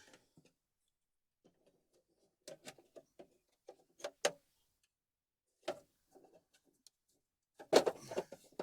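Irregular knocks and clatters of loose parts and metal being handled and moved about in an old Jeep, with a louder, denser cluster of clatter near the end.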